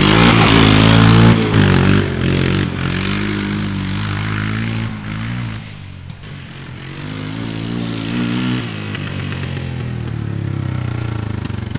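Dirt bike engines revving hard under load, their pitch rising and falling; the revs drop off about six seconds in, then climb again and hold steadier.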